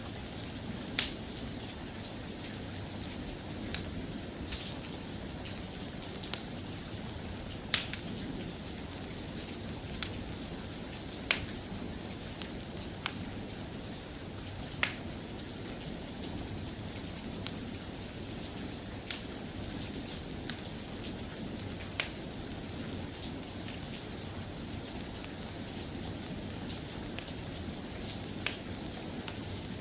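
Steady soft rain, with sharp single pops or clicks at irregular intervals of one to three seconds.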